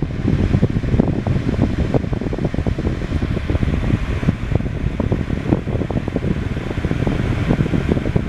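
Holmes Blizzard 7-inch air circulator desk fan running on its high speed: a steady rush of air with uneven low fluttering.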